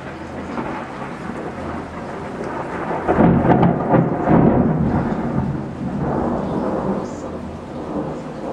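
Thunder rumbling over steady rain, building up and peaking about three seconds in, then slowly rolling away.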